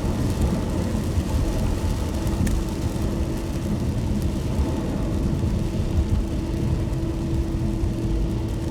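Car driving on a wet road: a steady low rumble of tyres and engine, with a faint steady hum above it and a single small click about two and a half seconds in.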